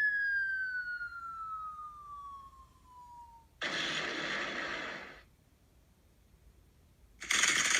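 Recorded firework sound effects from a lighting app. A whistle falls steadily in pitch for about three seconds, then a burst of explosion noise lasts over a second. After a pause, dense rapid firecracker crackling starts near the end.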